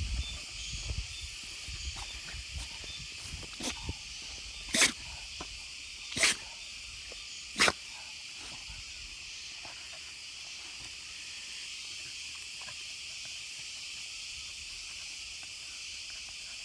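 Beagle sneezing three times, about a second and a half apart, each sneeze short and sharp.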